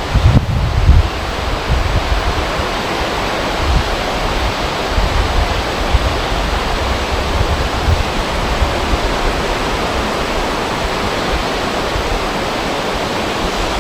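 Wind over a river: a steady rushing hiss of moving water and air, with uneven low buffeting of wind on the microphone.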